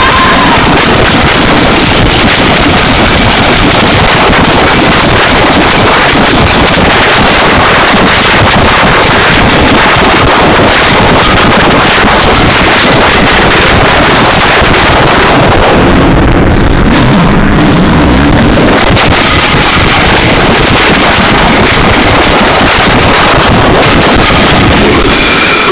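Harsh noise music: a loud, unbroken wall of distorted, static-like noise filling the whole range from deep rumble to hiss. About two-thirds of the way through, the top end briefly drops away and leaves a lower grinding rumble. Thin high squealing tones come through near the end.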